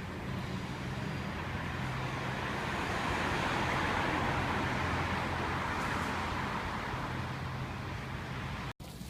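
A car driving past on the street, its tyre and road noise swelling and then fading, over a steady low traffic rumble. The sound drops out for an instant near the end.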